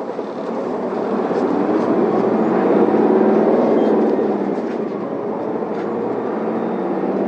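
Isuzu Erga city bus's diesel engine pulling away from a stop, heard from inside the cabin. Its drone grows louder over the first three seconds of acceleration, then eases a little.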